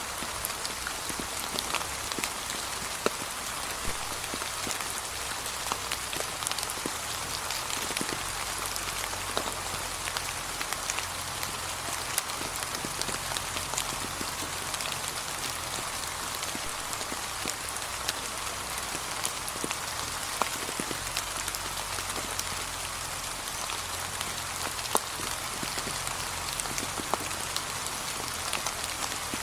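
Steady light rain pattering on fallen autumn leaves, an even hiss dotted with many separate drop ticks, a few of them louder. A faint low hum lies under it.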